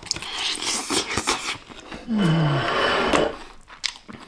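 Crispy fried chicken being bitten and chewed close to the microphone: dense crackling crunches of the breaded skin. About two seconds in comes a louder stretch of crunching with a short low hum that falls in pitch, then the chewing quietens to scattered crackles.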